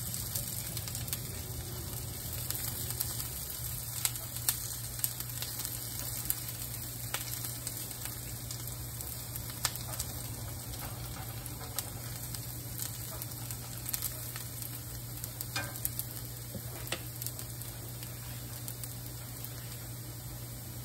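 Diced onions sizzling and browning in hot olive oil in a cast-iron skillet, with scattered small pops and a silicone spatula stirring through them at times.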